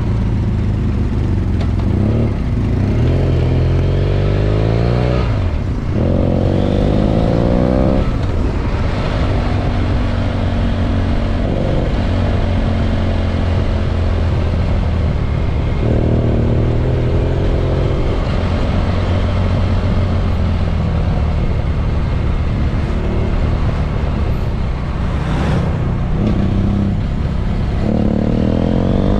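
BMW F800 GS motorcycle's parallel-twin engine heard from onboard, pulling up through the gears in several rising runs with short breaks at the gear changes and easing off between them, over steady wind noise.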